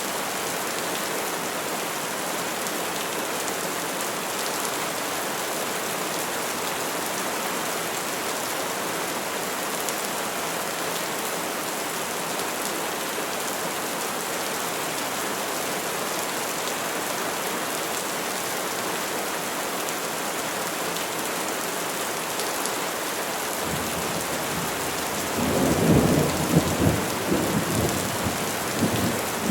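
Steady rain falling on trees. Near the end a low rumble of thunder rises and crackles loudly for a few seconds.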